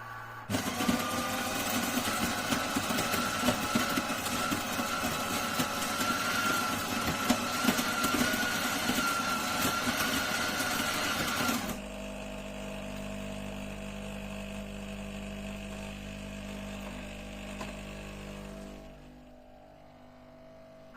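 Krups Sensation C50 bean-to-cup coffee machine making a drink. Its built-in grinder runs loudly for about eleven seconds with a steady whine, then cuts off. A quieter, steady pump hum follows and dies away shortly before the end.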